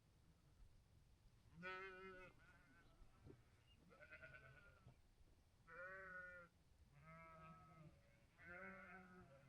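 Sheep bleating, faint, about five calls in a row with short gaps between them.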